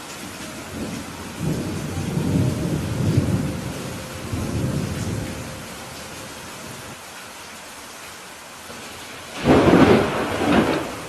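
Steady rain with thunder: a low rolling rumble a couple of seconds in that fades away, then a sudden, louder thunderclap near the end.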